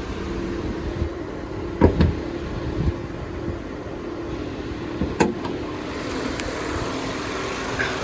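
2018 Honda Accord Touring's 2.0-litre turbocharged four-cylinder engine idling steadily, with a few sharp clunks: two close together about two seconds in and another about five seconds in.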